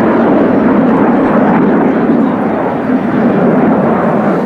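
Loud, steady jet noise from Kawasaki T-4 jet trainers flying a display.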